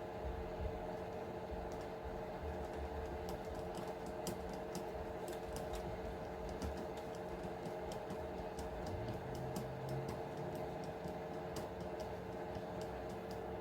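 Irregular light clicks and taps of small hand tools and plastic parts being handled during disassembly of an RC truck, over a steady background hum.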